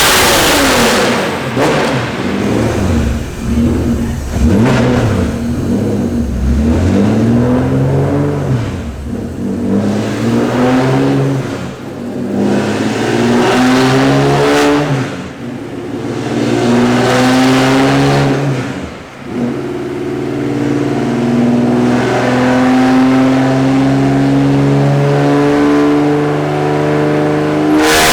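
Honda J35A4 3.5-litre V6 in a race car on a chassis dyno, revving up and down several times and then making a long, steadily rising pull under load.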